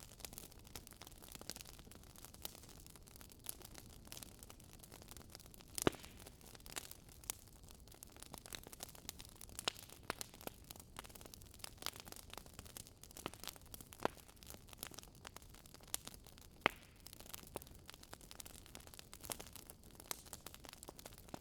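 Wood fire burning in a fireplace: logs crackling, with irregular sharp pops over a faint low hiss of the flames.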